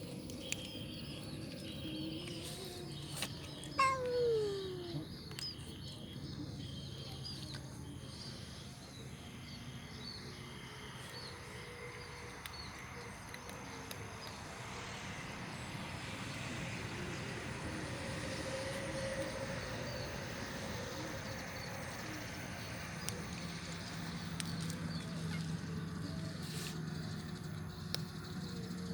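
A stray cat meows once about four seconds in, a single call falling in pitch. Small birds chirp repeatedly over a steady background hum.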